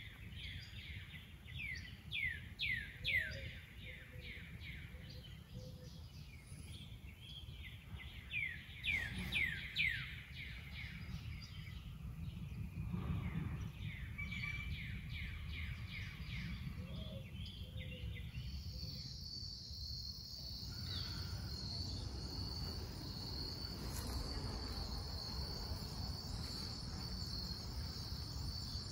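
Outdoor ambience: a bird sings runs of quick descending chirps, in the first few seconds and again around the ten-second mark. About two-thirds of the way in a steady, high-pitched insect trill starts and holds, over a low background rumble.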